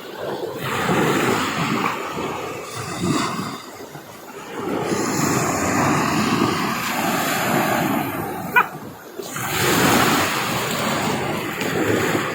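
Sea surf washing onto the shore in repeated swells, with a brief high, rising squeak about eight and a half seconds in.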